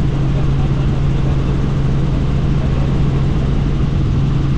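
Helicopter in flight, heard from the cabin with the doors off: steady engine and rotor noise with rushing air, over a constant low hum.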